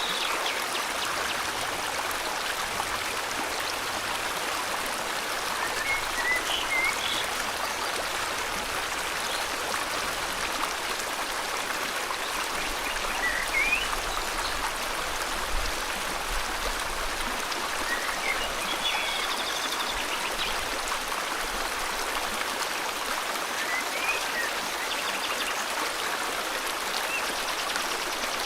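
River water flowing steadily, with short bird chirps now and then.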